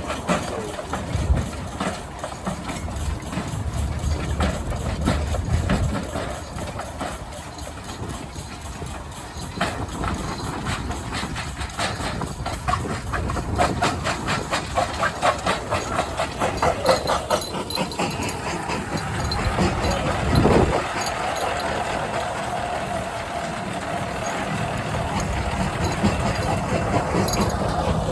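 Old engines and machinery running, with a run of rapid, regular beats midway and a single heavier thump later on.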